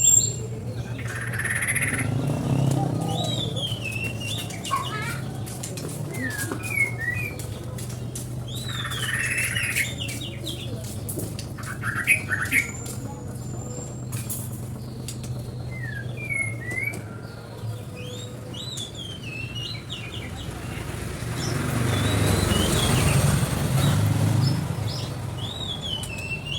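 A small songbird repeating short, quick chirping phrases every few seconds over a steady low hum. Rustling swells of noise come near the start, around ten seconds in, and for a few seconds near the end.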